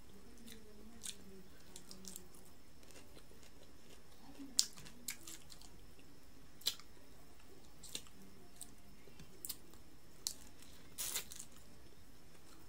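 Close-up eating sounds of a person chewing buttered shrimp: scattered sharp mouth clicks and smacks. The loudest comes about four and a half seconds in, and a small cluster comes near the end.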